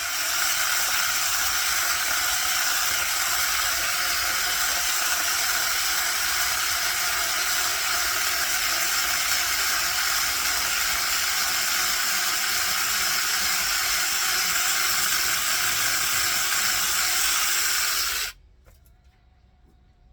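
A loud, steady hiss that starts abruptly and cuts off suddenly near the end.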